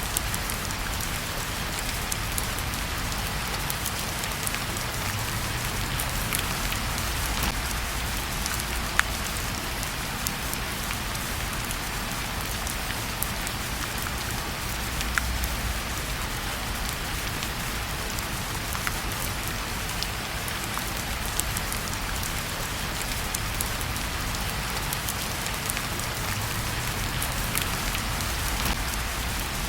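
Steady rain falling, with a few sharp crackles scattered through it.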